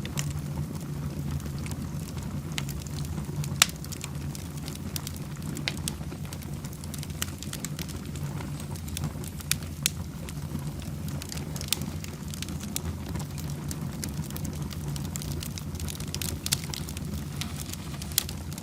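Wood fire burning in a fireplace: irregular sharp crackles and pops, one louder pop a few seconds in, over a steady low rumble of the flames.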